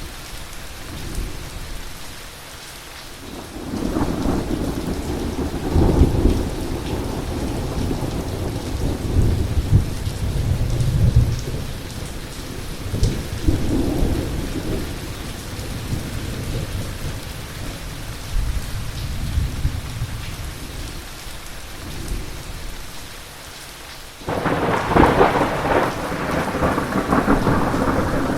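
Heavy rain falling steadily through a thunderstorm, with thunder rumbling in low rolling waves for much of the time. A sudden, sharper thunderclap breaks in near the end and stays loud.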